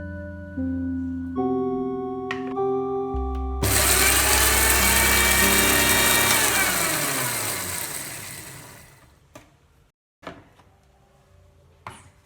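Soft instrumental music notes, then a kitchen mixer grinder's motor starts suddenly about three and a half seconds in and runs loudly. About three seconds later its pitch slides down as it is switched off and spins down, fading out. A few faint clicks follow near the end.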